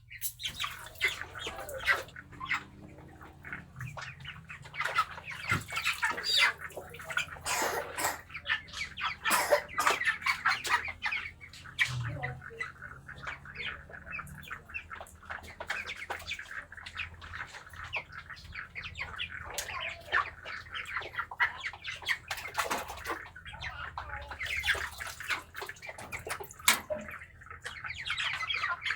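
Broiler chickens squawking with water splashing as heat-stressed birds are dipped into water to cool them down.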